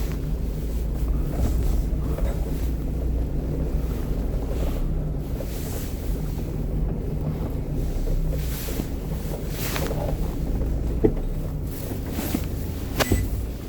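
Steady low rumble with a constant hum, and a few sharp clicks near the end.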